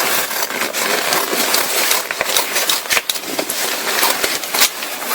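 Ripstop nylon of the paraglider wing and repair material rustling and crinkling as they are handled, with many small clicks.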